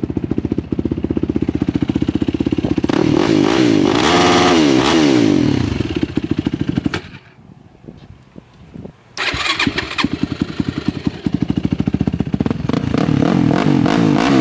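Yamaha YFZ450 quad's single-cylinder four-stroke engine idling with a rapid pulse, revved up and back down a few seconds in. It goes quiet for about two seconds, then fires back up and idles again, picking up revs near the end.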